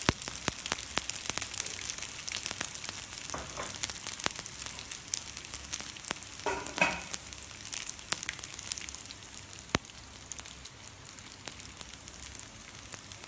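Dried anchovies sizzling in shallow oil in a non-stick frying pan, a steady hiss with frequent small crackles and pops that thin out toward the end. A brief pitched sound comes about halfway through.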